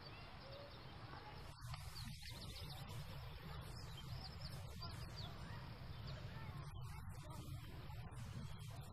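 Faint scattered bird chirps over a steady background hiss.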